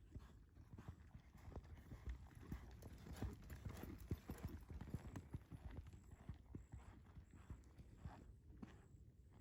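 Hooves of a Tennessee Walking Horse clip-clopping: a quick, uneven run of faint hoofbeats.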